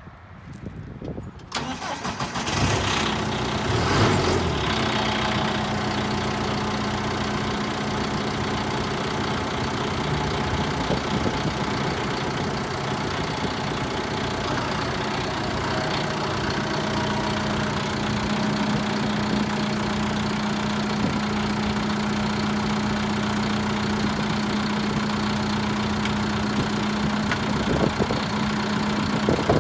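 John Deere 5100E tractor's diesel engine starting about two seconds in, then idling steadily.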